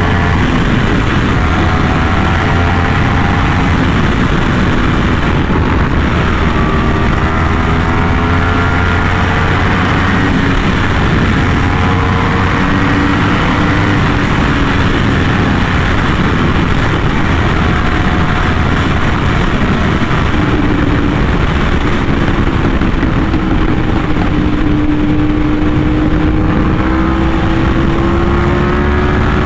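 Yamaha R1M's crossplane inline-four engine breathing through an SC Project exhaust while the bike cruises. The engine pitch rises and falls slowly and smoothly as the throttle is eased on and off, over a steady rushing noise.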